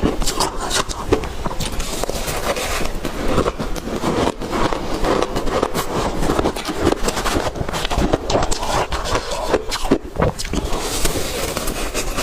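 Ice being chewed: continuous crunching with many sharp, irregular cracks.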